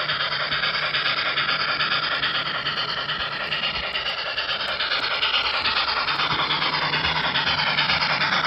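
A model train running on a layout, with a fast, even rhythmic clatter, and music playing in the background.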